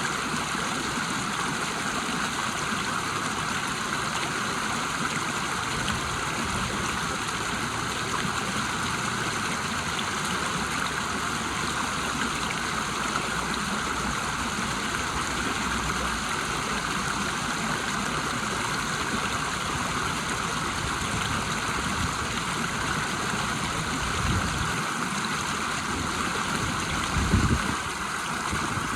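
River water rushing steadily over a small waterfall, an even, unbroken wash of sound. A brief low bump about two seconds before the end.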